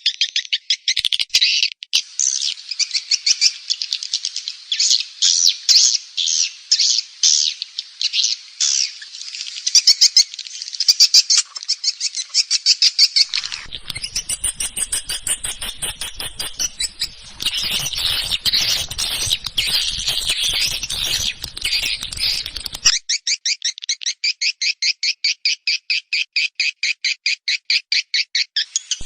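Edible-nest swiftlet call-and-roost lure recording used in swiftlet farming: rapid, high twittering chirps in quick runs. Partway through, the chatter turns denser and noisier with a low rumble under it, then changes to a fast, even series of chirps.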